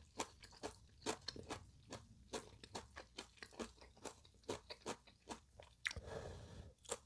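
Close-miked chewing of ramyeon noodles: a quick, even run of wet mouth clicks, about three to four a second. Near the end comes a short breathy rush as he blows on a steaming mouthful of noodles.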